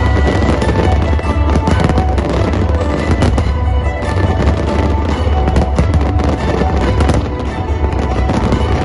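Fireworks display: rapid runs of bangs and crackling bursts in quick succession, over loud show music and a low rumble.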